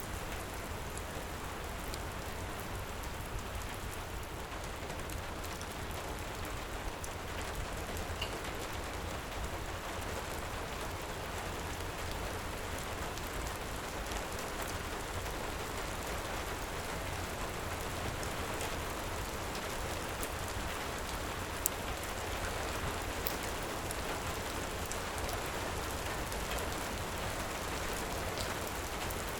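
Heavy rain falling steadily, with a few sharp crackles from a wood fire, one louder pop a little past the middle.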